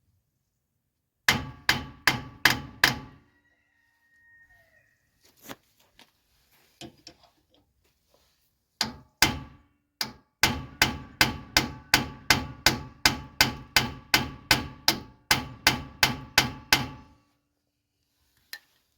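A hammer striking a bearing driver to press a new axle bearing into a 9.25 axle tube, with ringing metal-on-metal blows. Four quick blows come first, then after a pause a long steady run of blows at about two or three a second. The bearing is a tight fit in the tube.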